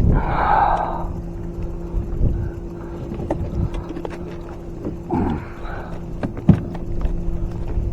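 A hooked bass being fought and landed at a fishing kayak: scattered knocks and clicks, with two short noisy rushes, one near the start and one about five seconds in, over a steady low hum.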